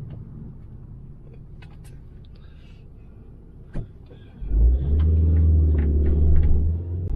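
Car engine starting about four and a half seconds in and running with a steady low rumble, after a quiet stretch with a few faint clicks and one sharp knock.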